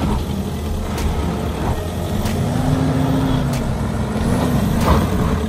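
Four-wheel-drive vehicle's engine running steadily, revving up and easing back down in the middle, with sharp ticks about once every second and a bit.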